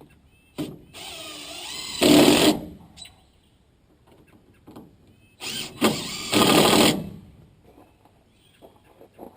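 Power drill run twice, each run a whine that gets louder partway through, as when driving a screw home.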